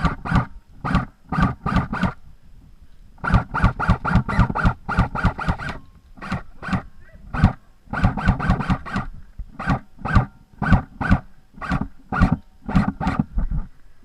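King Arms P90 airsoft electric gun, upgraded with an M120 spring, firing rapid single shots in several strings of about five shots a second, with short pauses between strings.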